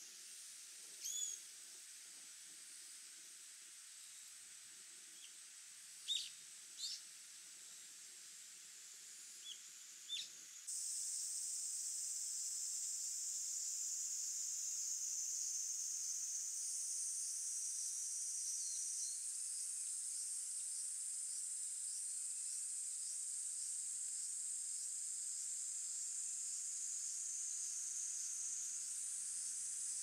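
A few short, high bird calls, some sliding up in pitch, over a steady high-pitched hiss; about eleven seconds in the hiss suddenly gets louder and carries on steadily, with only faint calls after it.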